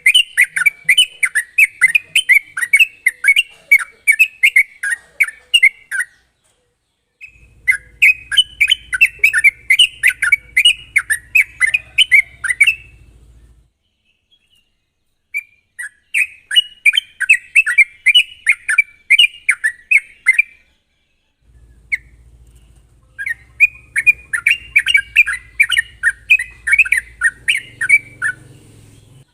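Yellow-vented bulbul (trucukan) singing its sharp, rapid-fire song: four long phrases of quickly repeated chattering notes, each lasting five to six seconds, with short pauses between them.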